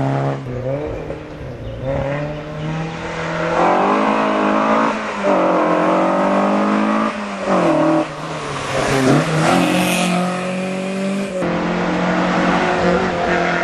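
Competition car engine revving hard and accelerating, its pitch climbing and then dropping back several times as it shifts through the gears.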